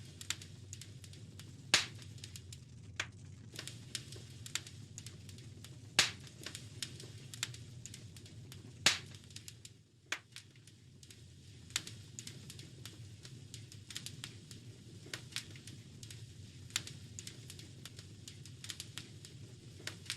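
Wood fire crackling in a fireplace: irregular snaps and pops over a steady low rumble of burning logs, with three louder pops in the first half.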